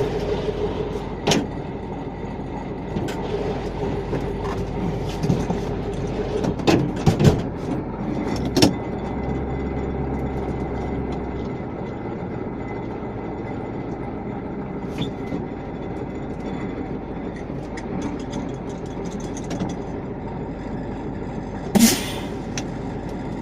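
Steady rumbling running noise of a vehicle, with scattered knocks and clatters and a sharp, louder clatter near the end.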